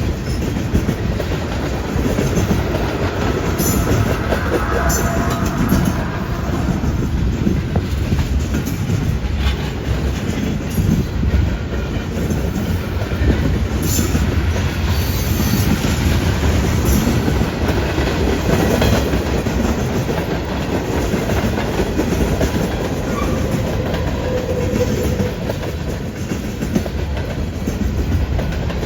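Freight train cars rolling past with a steady low rumble, their wheels clacking over the rail joints, with a few brief faint wheel squeals.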